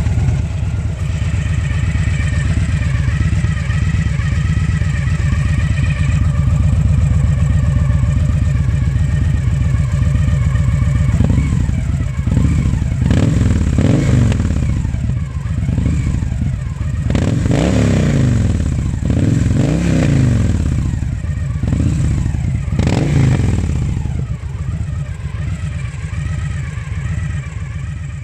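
Victory Gunner V-twin motorcycle engine through a Miller exhaust, idling with a deep, even pulse. About eleven seconds in, the throttle is blipped several times, each rev rising and falling, and the engine then settles back to idle.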